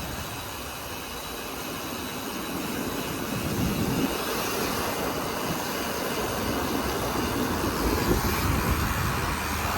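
Road traffic noise from vehicles passing on a busy highway, a steady rushing roar that grows gradually louder, with swells of rumble as vehicles go by.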